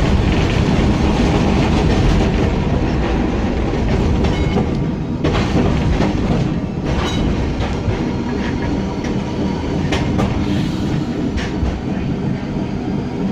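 W6 class tram running along its track: a steady rumble of wheels and running gear, with several sharp clicks and clunks as the wheels pass over rail joints.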